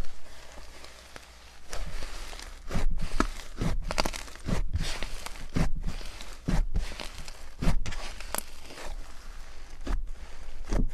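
Slime being squeezed and pressed by hand: a run of squishes, roughly one a second, starting about two seconds in after a quieter opening.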